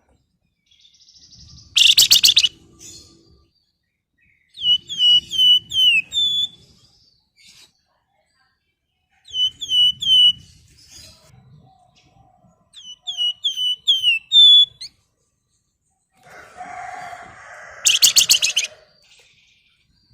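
Flamboyan songbird calling: a loud harsh rasping chatter about two seconds in, then three phrases of quick down-slurred whistled notes, three to six at a time, and another harsh rasp near the end.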